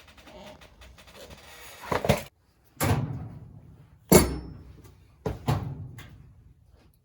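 Workshop handling noise: a scraping, rustling sound builds for about two seconds, then a string of sharp knocks and bangs, as of hard objects being set down or knocked about. The loudest knock comes about four seconds in.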